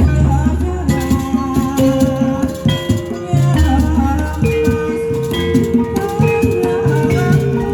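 Jaranan accompaniment music: drums and rattling percussion over held pitched notes and a melody, with a long low note near the start and another about halfway.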